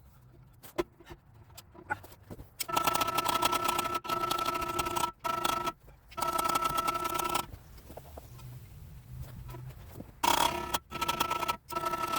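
A small motor running in bursts: a steady buzz with a fast pulse starts about two and a half seconds in, breaks off briefly twice, stops, and starts again near the end.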